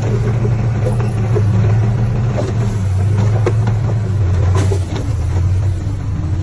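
Heavy construction machine's diesel engine running steadily with a deep hum, with a few short knocks over it.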